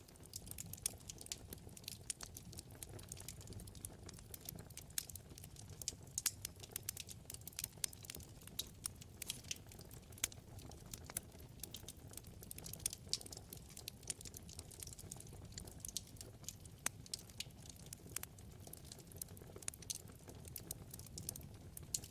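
Wood fire in a fireplace crackling, with many small irregular pops over a low, steady rumble of flames.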